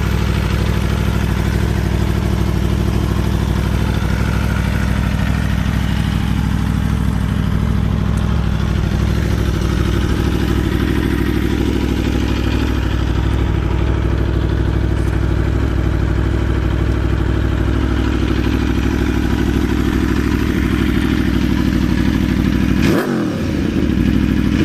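Aprilia Tuono V4 motorcycle engine idling steadily, with a quick rev near the end.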